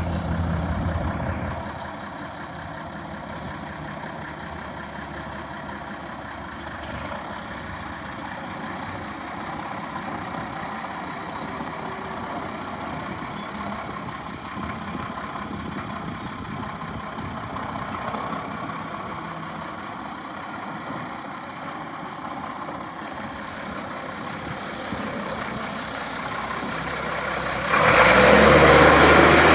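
1980 International truck's engine idling steadily, getting suddenly much louder about two seconds before the end.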